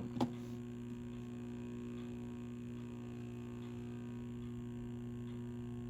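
Steady low electrical mains hum with a few overtones and no speech or music, from a VHS tape transfer. A faint short tick comes just after the start.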